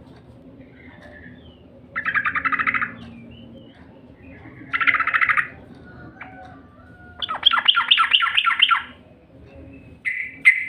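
Yellow-vented bulbul (trucukan) singing: four short bursts of rapid, bubbly chattering notes, the longest about a second and a half long, used as a lure song to prompt kept birds to sing.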